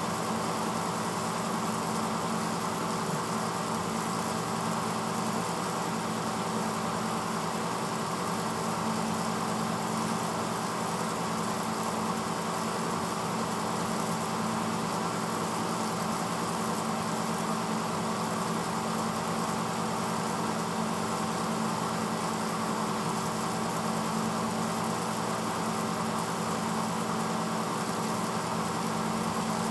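1986 Hotpoint Potwasher dishwasher mid-cycle: its pump motor runs with a steady hum while water sprays against the inside of the tub in an even hiss.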